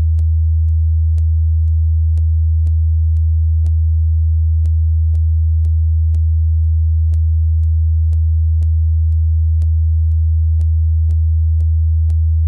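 Steady, very deep sine-wave bass test tone at constant loudness, meant to make a subwoofer vibrate. A faint click sounds about twice a second.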